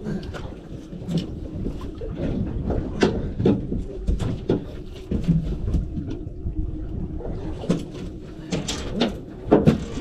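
Irregular knocks, clicks and clatter on a small fishing boat as a fish and gear are handled, over a steady low rumble.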